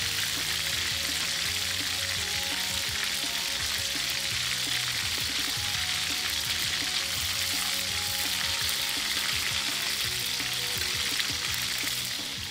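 Whole quail deep-frying in a wok of hot oil: a steady, dense sizzle of bubbling fat.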